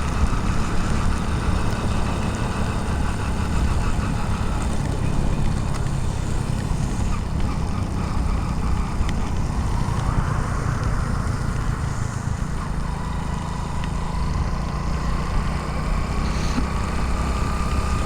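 Riding noise of a motorcycle in rain, picked up by a helmet-mounted GoPro in its waterproof case: a steady low rumble of engine, wind and wet road. A faint tone slowly rises through the second half.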